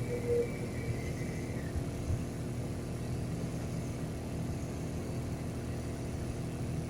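Steady low rumble of a passenger train running, heard from inside the carriage, with a faint high tone that fades out about a second and a half in.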